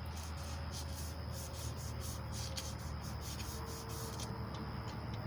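Emery cloth sanding a small-block Chevy 350 crankshaft journal in quick back-and-forth strokes, about four a second, stopping about four seconds in. A steady low hum runs underneath.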